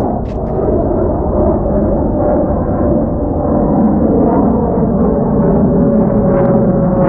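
Aircraft flying low overhead: a loud, steady engine rumble with a faint whine in it.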